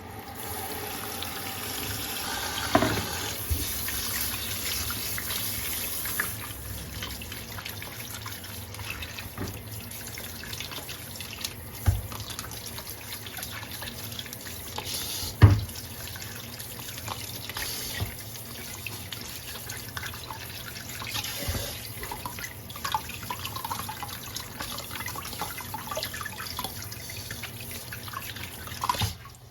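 Water running from a kitchen tap into a sink while things are rinsed under it, with a few knocks of items against the sink, the loudest about halfway through.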